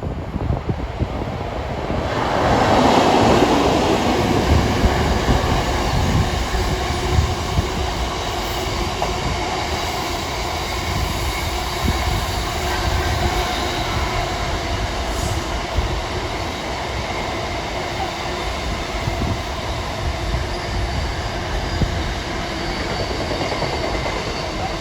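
A train running through the station: rumbling wheel-and-rail noise with several steady tones over it, getting louder about two seconds in and then holding.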